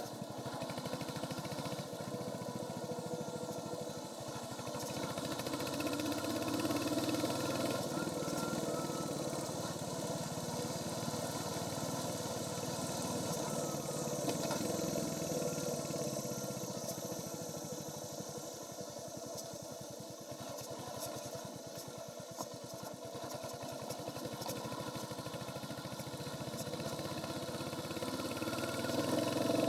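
Royal Enfield Hunter 350's single-cylinder engine running under way through its stock exhaust, over a steady hiss. The engine note swells and eases as the throttle opens and closes, and picks up again near the end.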